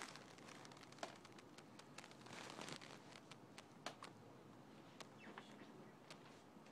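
Near silence: faint outdoor background with scattered light clicks and ticks.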